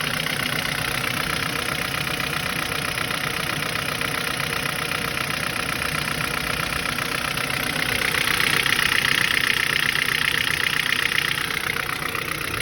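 Kia Ceed 1.6 engine idling with a fast, even clatter: an extraneous noise whose cause the owner cannot pin down. For a few seconds past the middle it grows louder and brighter, then settles back.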